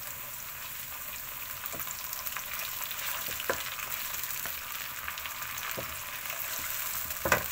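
Chopped onion, ginger-garlic paste and fresh tomato pulp sizzling in hot oil in a wok while a ladle stirs them. A few light knocks of the ladle against the pan come through, with a louder knock near the end.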